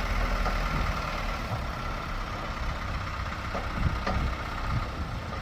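Heavy earth-moving machine's engine running steadily at idle, a low rumble with a few faint knocks.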